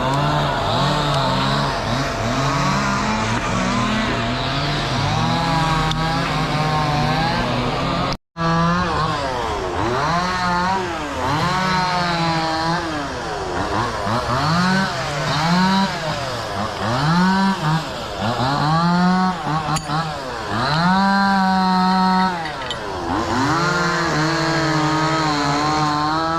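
Chainsaw engine revving up and down over and over, its pitch climbing and dropping every second or two, with a brief gap about eight seconds in.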